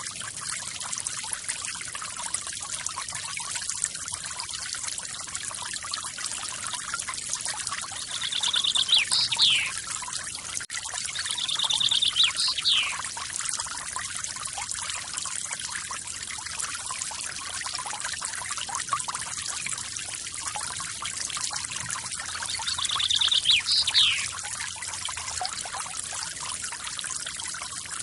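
Steady rush of a forest waterfall, with a bird calling three times over it. Each call is a fast trill followed by a quick up-and-down sweep.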